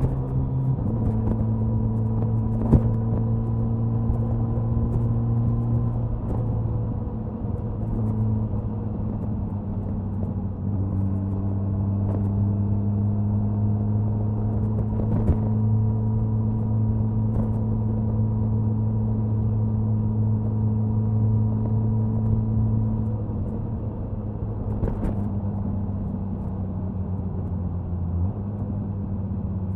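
Suzuki Hayabusa's inline-four engine and exhaust running steadily at highway cruising speed, with wind rush. The engine note steps down in pitch about a second in, again around ten seconds in and once more near the end, and a few sharp clicks cut through it.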